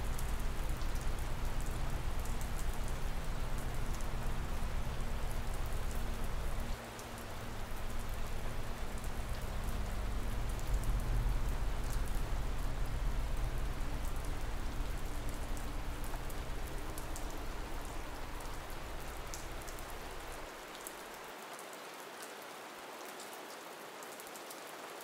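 Steady rainfall from a rain ambience track, with a low rumble underneath that dips briefly about seven seconds in and fades away about twenty seconds in, leaving quieter rain.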